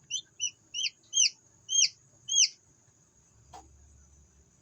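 Newly hatched Elba chicks peeping: six short, shrill peeps in the first two and a half seconds, each louder than the last, then a single faint tap about three and a half seconds in.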